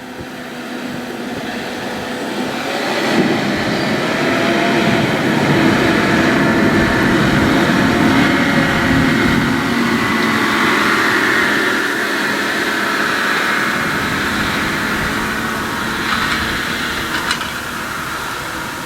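John Deere 6155R tractor's six-cylinder diesel engine working under load with a buckrake on a silage pit. It grows louder over the first few seconds, stays loud through the middle and eases off toward the end.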